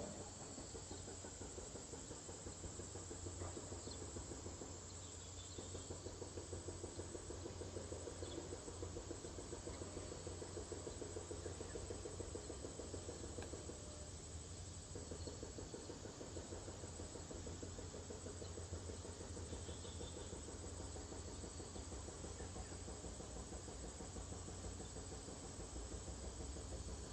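Steady outdoor background of insects chirring, with a low hum beneath.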